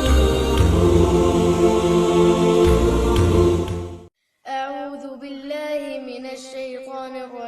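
Intro music with sustained low tones, cut off sharply about four seconds in; after a brief silence a single reciter's voice begins chanting Quranic recitation in long, melodically held notes.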